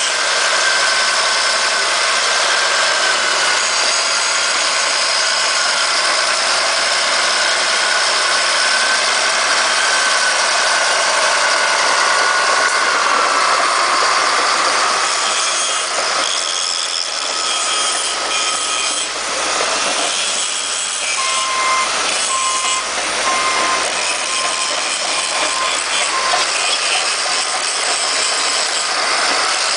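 Caterpillar D7H crawler bulldozer running, a steady mechanical din with whining tones that drift in pitch. From about twenty seconds in, a string of short repeated high tones sounds over it.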